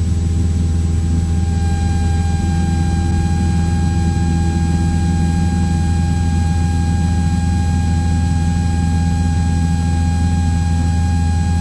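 Cessna 172's piston engine and propeller drone steadily, heard inside the cabin, with a thin steady whine above the low hum.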